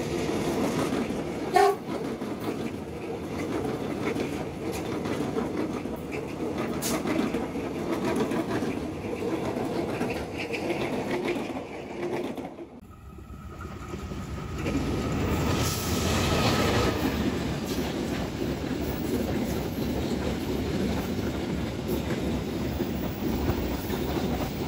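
KRL electric commuter train passing close by, its wheels rumbling and clacking over the rails, with a short loud blip about a second and a half in. After a sudden break near the middle, a long goods train of covered wagons rumbles past at close range.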